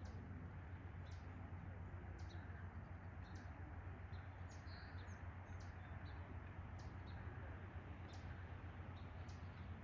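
Faint short bird chirps, repeating about once a second, over a steady low outdoor rumble.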